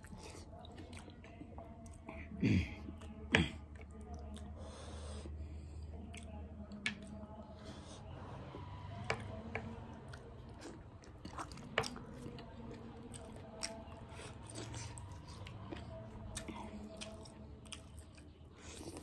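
Close-up chewing of rice and mutton curry eaten by hand, with wet mouth sounds and scattered small clicks. Two sharp knocks come close together a few seconds in.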